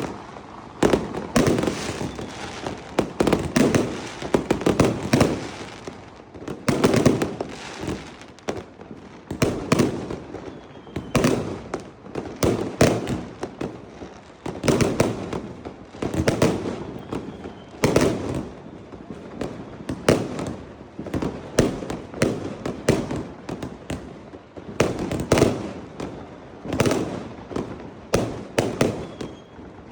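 Fireworks bursting overhead in quick, irregular succession: sharp bangs, each followed by a booming rumble, about one or two a second, with some brief clusters of crackling reports.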